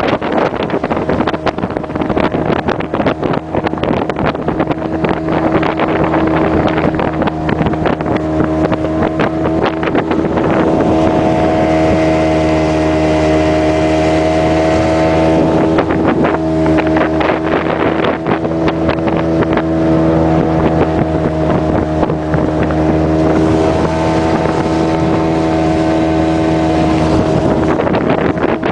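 Outboard motor of a small passenger boat running steadily under way, its engine note shifting slightly now and then, with wind buffeting the microphone.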